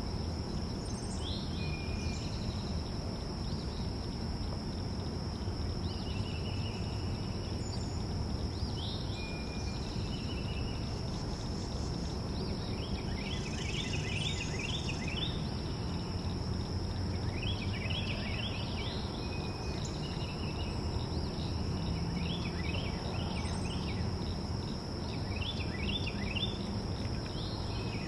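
Small backyard birds chirping in repeated bursts of quick, downward-sweeping notes, with a few short single calls between them. A steady high-pitched insect drone runs underneath, over a low background rumble.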